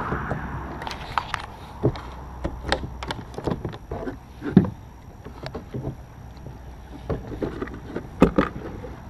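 Kayak being paddled: irregular paddle splashes and knocks of the paddle against the kayak, the sharpest knock about halfway through, over a low steady rumble.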